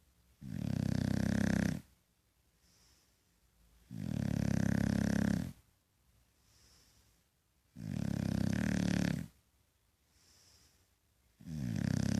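A dog snoring loudly and regularly, one long snore of about a second and a half on each breath, about every three and a half to four seconds. Three full snores, a fourth starting near the end, with faint breathing between them.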